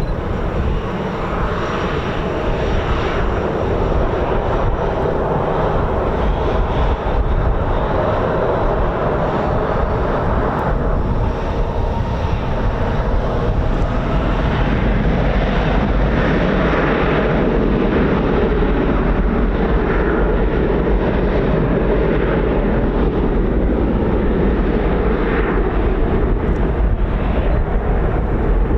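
Twin CFM56-7 turbofan jet engines of a Boeing P-8 Poseidon running loudly and steadily, with strong wind rumbling on the microphone.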